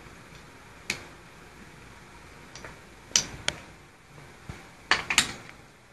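Sharp metallic clicks and clinks of small air-ratchet parts being handled and set down: one about a second in, two a little after three seconds, and a quick run of several near the end.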